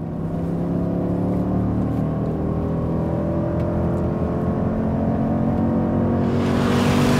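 2014 Jeep Grand Cherokee SRT's 6.4-litre V8 pulling hard under acceleration, its pitch climbing slowly through one gear. Near the end a rush of wind and tyre noise swells over the engine as the SUV comes close.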